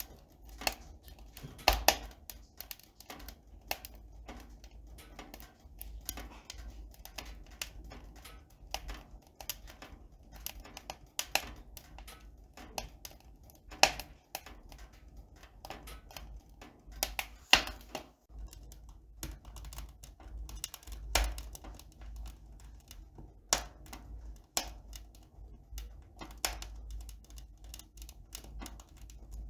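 Irregular light clicks and taps, like keys or small hard objects being handled, with a few louder knocks scattered through.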